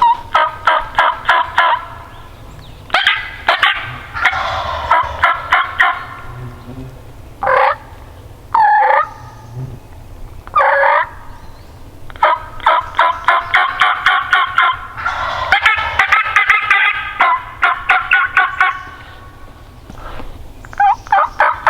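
Wild turkeys calling: several loud runs of rapid yelping notes, about five a second, with three longer single swooping calls in the middle.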